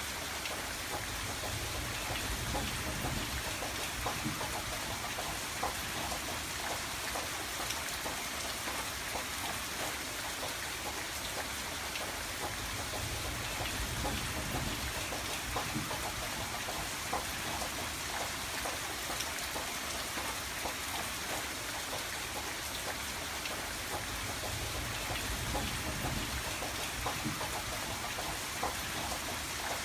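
Steady rain falling on a window: many separate drop ticks over an even hiss, with a low rumble that swells and fades a few times.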